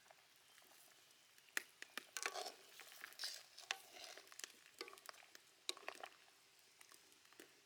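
Faint stirring of chicken gizzards in a bowl: irregular small clicks and soft scraping rustles, most of them in the first two-thirds.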